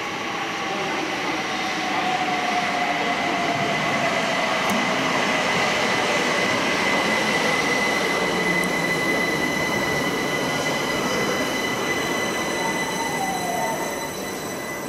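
London Overground Class 378 electric train pulling into the platform and slowing to a stop. Its whine falls in pitch as it brakes, over a steady high-pitched squeal, and a second short falling whine comes near the end.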